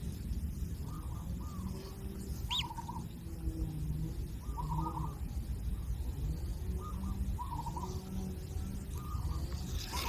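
Kingfisher chicks calling: short, wavering calls repeated every second or so over a steady low rumble, with one brief higher call about two and a half seconds in.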